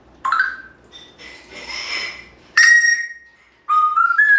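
African grey parrot whistling. A short chirp comes first, then a loud held whistle about halfway through, and near the end a whistle that climbs in steps. A stretch of hissing noise sits between the first two.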